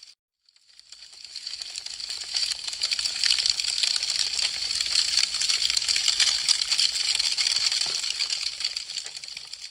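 Wood fire crackling: a dense run of sharp pops and snaps. It fades in after a brief silence at the start and fades down near the end.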